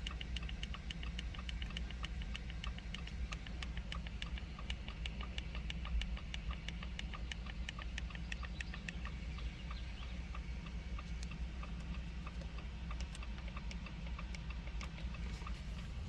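Rapid, even ticking with a faint tone, about five ticks a second, fading out about ten seconds in, over a steady low hum, heard inside a car cabin.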